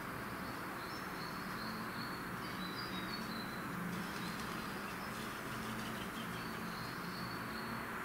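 Small birds chirping faintly in a few short runs of thin, high notes, over a steady background hiss and a faint low hum.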